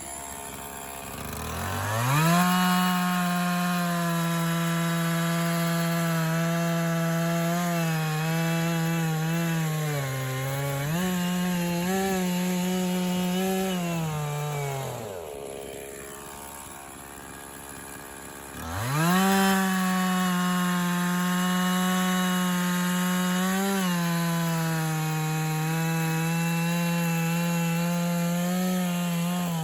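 Echo CS-501P 50cc two-stroke chainsaw revving to full throttle and cutting through white pine logs, its pitch dipping briefly under load. It drops back to idle about halfway through, then revs up again for a second cut that runs almost to the end.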